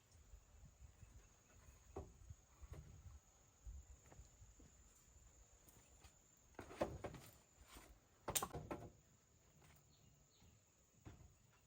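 Near silence with a few scattered knocks and rustles, the loudest about seven and eight and a half seconds in, over a faint steady high tone.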